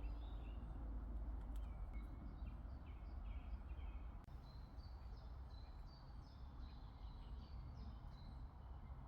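Small birds chirping in quick, repeated short notes over a steady low outdoor rumble.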